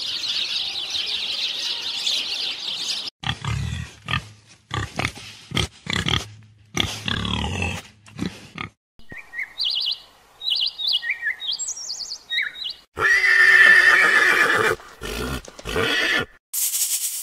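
Calls of several different animals, played one after another in short segments with abrupt cuts between them: a steady high-pitched buzz, a run of repeated calls, short high chirps, then a loud sustained call about three-quarters of the way through.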